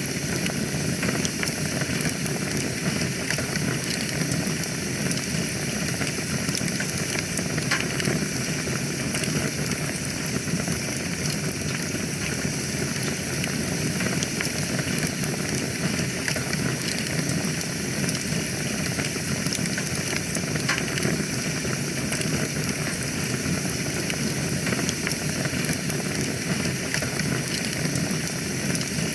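Wood fire burning in a fireplace: a steady hiss and low rumble of flames with frequent small crackles and pops.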